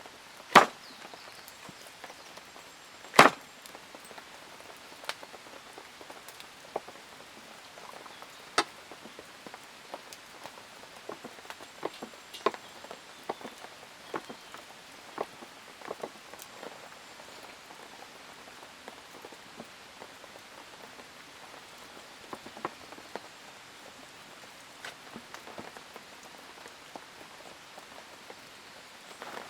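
Rain falling steadily, with scattered drops tapping close by at irregular intervals and two sharper, louder taps in the first few seconds.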